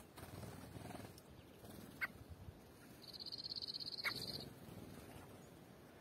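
A small songbird gives a high, rapid trill about three seconds in, lasting about a second and a half. Two short, sharp chirps come about two and four seconds in, over a faint outdoor background.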